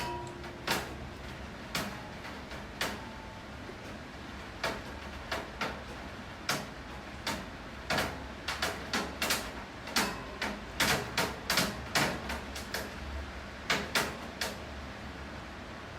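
Rain dripping onto a hard surface: irregular sharp taps of single drops over a steady low rain hiss. The taps come thick and fast in the middle of the stretch and thin out early on.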